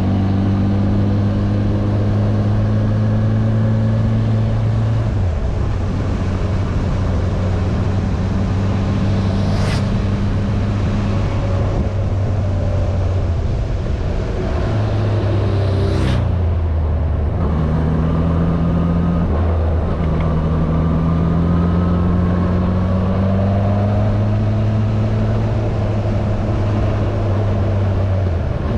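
Yamaha air-cooled inline-four motorcycle engine running under way, its note rising and falling several times as the rider changes speed and gear. Two brief sharp noises cut through, about ten and sixteen seconds in.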